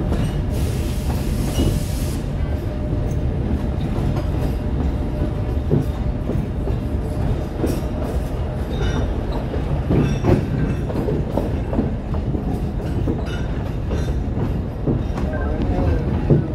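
Narrow-gauge Alishan Forest Railway hinoki-wood train running, heard from aboard: a steady low rumble with wheels clicking over rail joints and points. A brief hiss comes about a second in.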